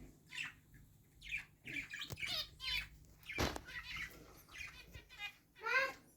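Small pet parrots chirping and chattering in a string of short, wavering calls, with a brief sharp noise about halfway through.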